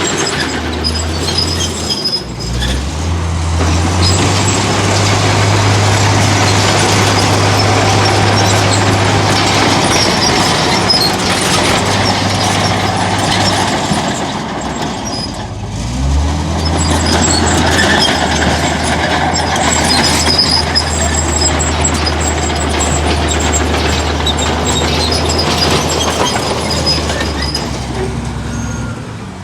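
Heavy diesel earthmoving machinery running under load, with a rattling clatter over a steady low engine note. The engine eases off briefly about two seconds in and again about halfway, then revs back up.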